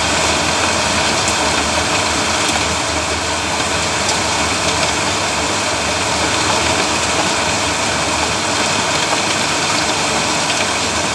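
Heavy rain falling steadily: a loud, dense, even hiss with a few faint ticks of drops landing.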